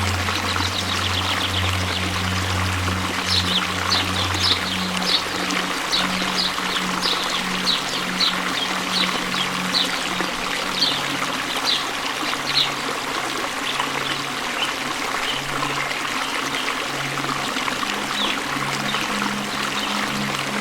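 Waterfall's steady rush of falling water, with a soft, low sustained music drone underneath that shifts notes. Through the middle stretch comes a run of short, high-pitched chirps, about two a second.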